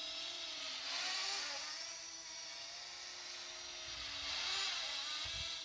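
Parrot ANAFI quadcopter's motors and propellers whining in flight, the pitch wavering up and down about a second in and again near the end as it is flown left and right.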